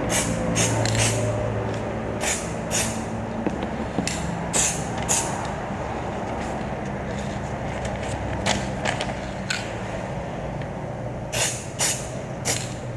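Aerosol spray paint can hissing in a series of short bursts, a dozen or so quick squirts in small clusters, over the steady low hum of a fan.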